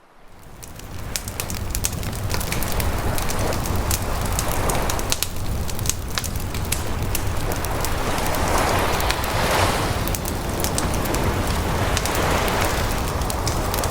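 Wood fire crackling and popping with many sharp snaps, over waves washing in that swell every few seconds. The sound fades in over the first two seconds.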